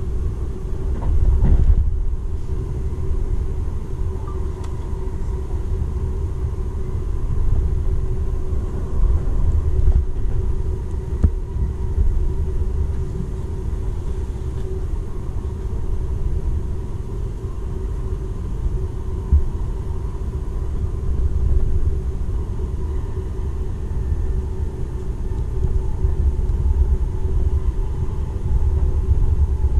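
Running noise inside the cabin of a Seibu 001 series Laview limited express train at speed: a steady low rumble of the wheels on the rails with a faint steady hum over it, and a single sharp knock about eleven seconds in.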